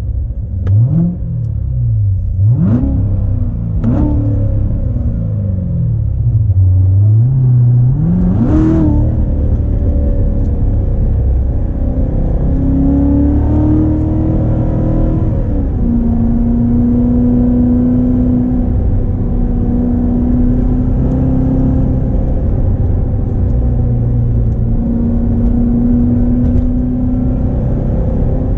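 2016 Corvette Z06's supercharged 6.2-litre LT4 V8 running hard, its pitch rising and falling in several quick surges. About twelve seconds in it settles into a steady drone, dropping in pitch once a few seconds later as if shifting up, and holds steady to the end.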